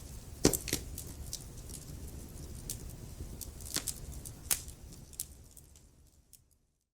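Wood fire crackling, with sharp pops over the low rumble of the flames, the loudest pop about half a second in. The sound fades out from about five seconds in and drops to silence near the end.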